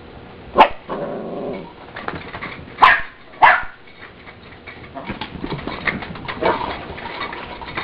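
Puppies barking: three short, sharp barks about half a second, three seconds and three and a half seconds in, with a lower, longer sound after the first bark and quieter scuffling and small noises near the end.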